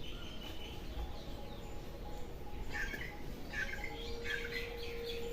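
Small birds chirping in the background, with a few quick clusters of chirps in the second half. A steady faint tone comes in about four seconds in.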